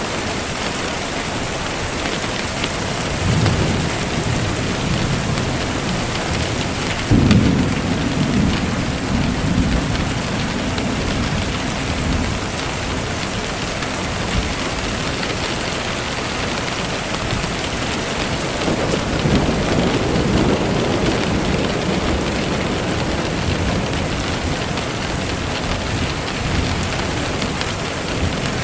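Steady rain falling, with thunder: a low rumble about three seconds in, a sudden clap about seven seconds in that rolls away over several seconds, and another rolling rumble about nineteen seconds in.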